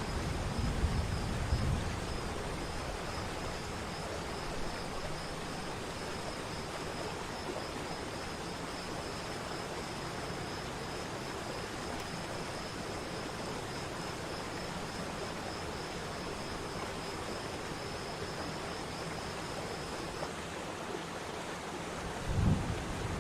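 Steady rushing of a mountain waterfall, an even wash of water noise. A high, finely pulsing insect-like trill runs over it and stops near the end. There is a low gusty rumble in the first two seconds and a brief low thump shortly before the end.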